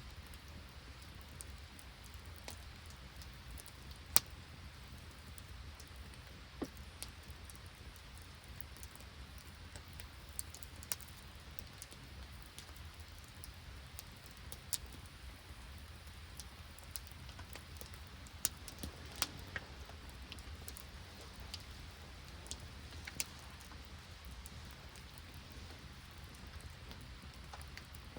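Rain and sleet falling steadily, with scattered sharp ticks at irregular intervals over a low steady rumble.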